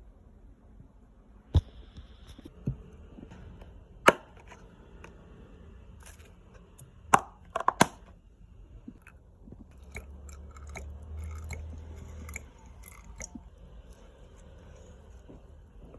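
Crunchy chewing: scattered sharp cracks, the loudest about four and seven seconds in, then a denser run of small crunches with a low rumble a little past the middle.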